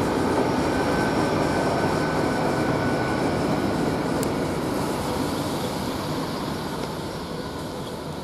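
Great Western Railway Class 800 bi-mode train running into the station with a steady rumble of wheels and engines. A faint whine is heard early on, and the noise eases off over the last few seconds as the train slows.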